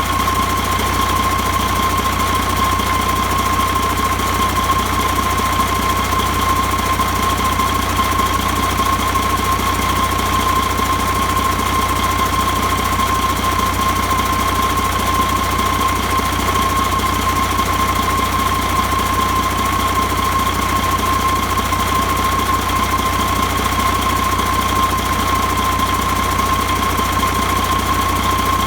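Mercedes-Benz MBE4000 inline-six diesel engine running at a steady speed: a deep, even rumble with a constant high whine over it.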